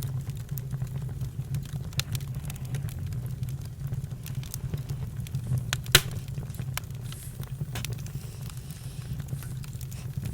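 Campfire crackling and popping over a steady low rumble, with one sharp, loud pop about six seconds in.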